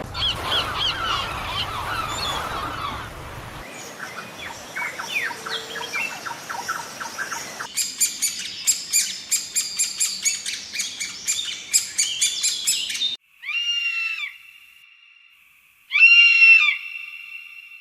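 Birds chirping and calling in a few separate clips: scattered chirps, then a fast run of repeated chirps, then two loud calls a few seconds apart.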